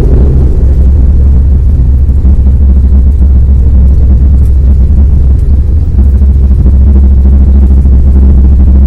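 Airliner landing, heard from inside the cabin: a loud, steady, low rumble of the aircraft's engines and airflow, with no distinct bumps or changes.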